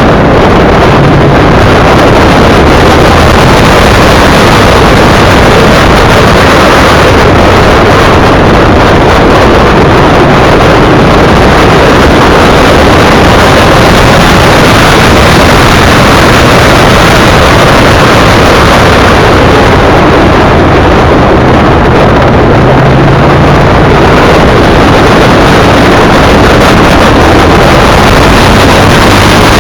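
V-twin sport motorcycle riding at cruising speed, its engine running under loud, steady wind noise on the microphone, with small shifts in engine pitch.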